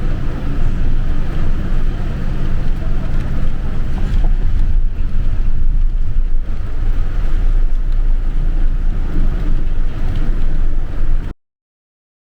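Inside a moving bus: a steady low engine and road rumble with a constant rushing hiss over it. About eleven seconds in it cuts to dead silence.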